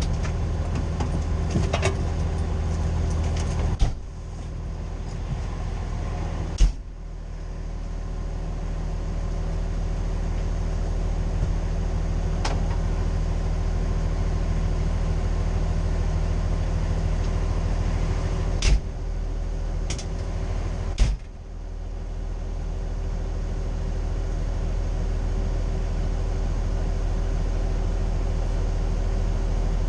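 Fire engine's Cummins L9 diesel idling steadily, with four sharp thumps over it, two close together near the start and two more later on.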